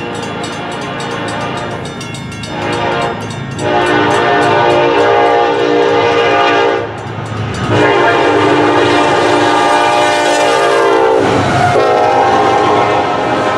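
Diesel locomotive running close by and sounding its air horn in blasts: a short one about two and a half seconds in, then two long ones, and another starting near the end. A rapid, regular ticking comes through in the first couple of seconds.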